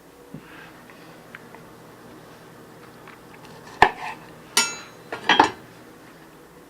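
Dishes being handled: a sharp knock a little under four seconds in, then two ringing clinks about a second apart.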